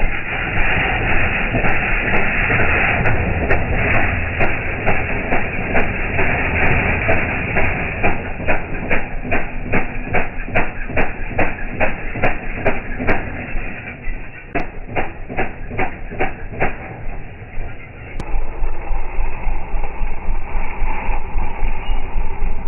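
Small motorbike engine running, slowed down so that it becomes a low, drawn-out rumble. From about eight seconds in, its separate firing strokes are heard as distinct pops, about two a second, spreading further apart. Near the end a steadier low pulsing running takes over.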